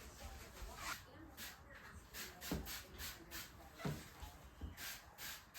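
Bathtub being scrubbed with a cleaning brush: short, even scrubbing strokes, about three a second.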